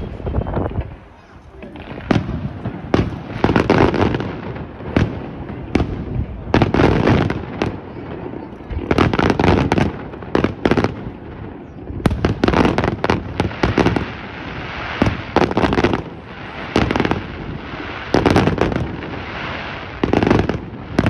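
Fireworks display: aerial shells bursting in a rapid, irregular series of sharp bangs, often several in quick succession, with crackling noise between them.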